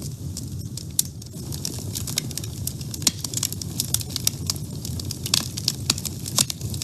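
Wood fire burning in a woodstove: a steady low rumble of flames with frequent sharp crackles and pops from the burning wood.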